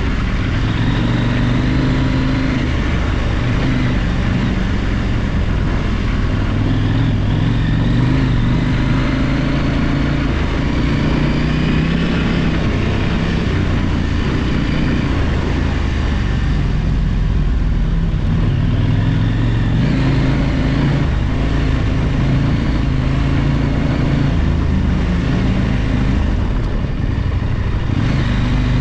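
Big adventure motorcycle's engine running under way off-road, its note rising and falling with the throttle, over steady wind and riding noise.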